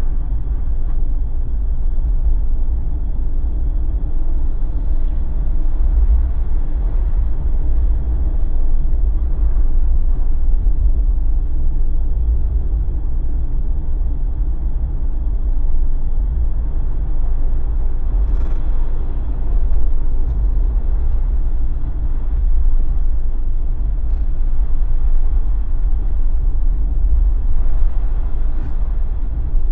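Jeep driving at steady speed: a constant deep rumble of engine and tyre road noise. A few faint ticks come through, about two-thirds of the way in and near the end.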